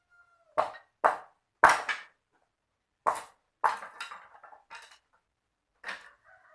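A series of sharp knocks, about eight, irregularly spaced, some with a short ringing tail.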